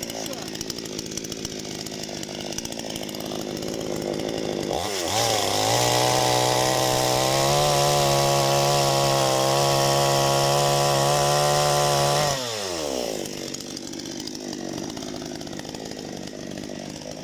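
Parma BP-058 two-stroke chainsaw idling, then revved up at about five seconds and held at a steady high speed for about seven seconds before it drops back to idle.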